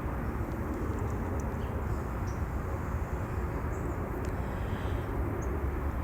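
Steady low outdoor rumble with no clear rhythm, with a few faint short high calls now and then.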